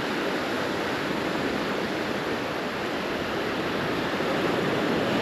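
Gulf surf breaking and washing up the beach: a steady rush of water noise.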